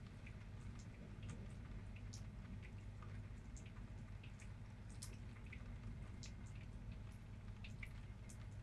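Faint rain dripping: scattered single drops ticking at irregular intervals over a steady low background noise.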